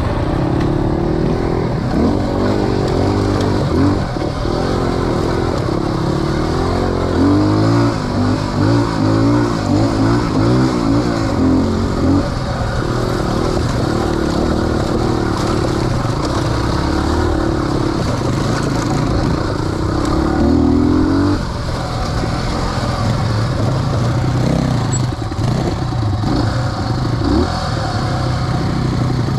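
Off-road motorcycle engine running continuously, its revs rising and falling again and again with the throttle.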